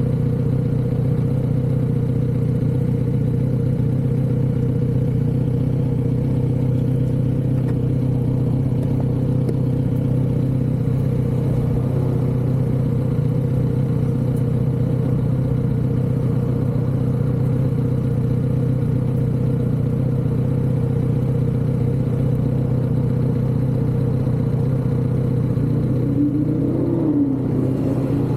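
Kawasaki Z900RS motorcycle's 948 cc inline-four engine through its stock exhaust, running at a steady, unchanging pitch while the bike cruises. There is a slight change in the note near the end.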